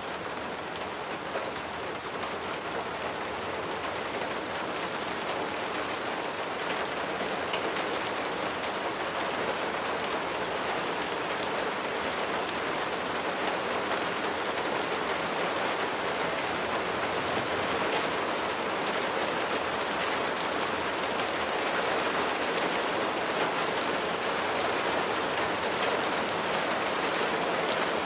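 Steady rain falling: a dense even hiss of drops with scattered sharper drop ticks, growing slowly louder.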